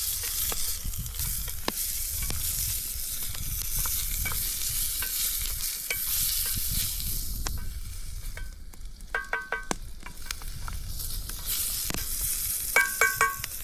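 Chopped onion and celery sizzling as they brown in a hot pan being deglazed, with the scrape and clicks of stirring. A few short ringing taps come about nine seconds in and again near the end, as a utensil knocks against the pan.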